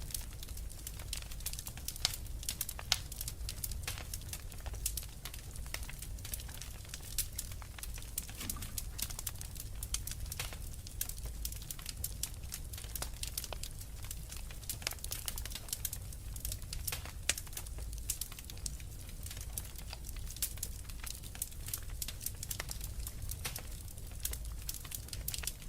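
Wood fire crackling in a fireplace: a dense, irregular run of small pops and snaps over a steady low rumble.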